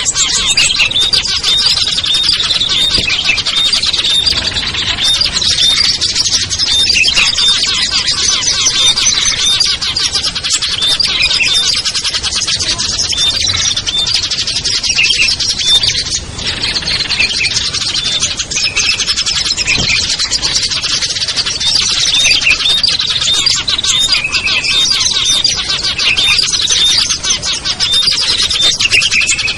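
Dense, unbroken chirping and chattering of several small songbirds at once, a mixed lure recording for catching wild small birds. The many rapid high notes overlap without pause.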